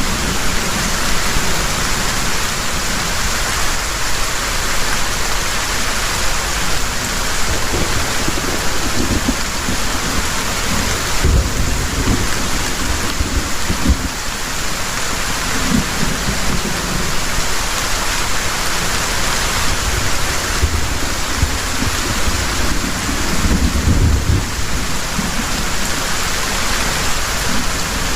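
Heavy rain pouring steadily, a dense even hiss, with low rumbles of thunder swelling and fading several times.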